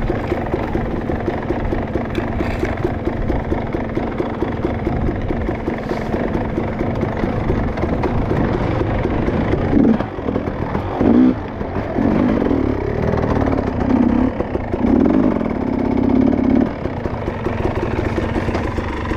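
Dirt bike engine running steadily, then revved up and down several times in the second half.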